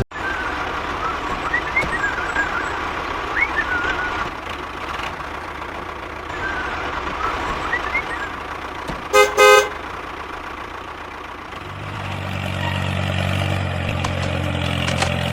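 Steady background noise with a few short high chirps, then a vehicle horn toots twice in quick succession about nine seconds in. From about twelve seconds a low engine hum sets in and runs steadily.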